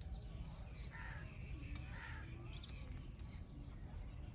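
Wild birds calling: a few short calls about a second apart, over a steady low rumble.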